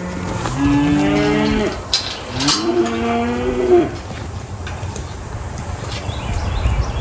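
A cow mooing twice: two long moos of about a second each, one after the other, the second a little higher, each dropping off at its end.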